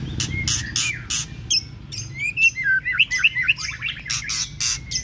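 White-rumped shama (murai batu) singing a fast, varied song: harsh rasping notes and sharp chirps interleaved with quick whistled glides. A steady low rumble sits underneath.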